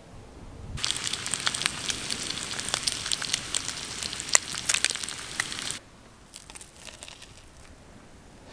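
Bacon and an egg frying in a pan over a fire grill: a dense sizzle with many sharp spits and pops. It starts about a second in and stops abruptly near six seconds, leaving only faint scattered clicks.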